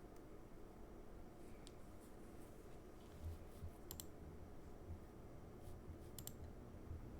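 A few faint computer-mouse clicks in pairs, one double click about four seconds in and another a little after six seconds, over a low steady room hum.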